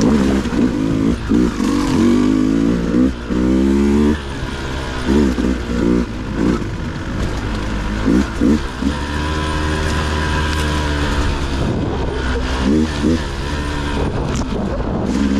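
Dirt bike engine being ridden over rough terrain, the throttle blipped again and again so the revs rise and fall in short bursts, with a longer steadier pull near the middle.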